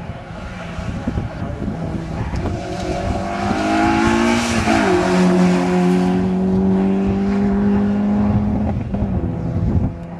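Peugeot 205 competition car's engine revving hard as it comes through a chicane and passes close by, its pitch climbing and then dropping sharply as it goes past about five seconds in. The engine then holds a steady high note as the car pulls away.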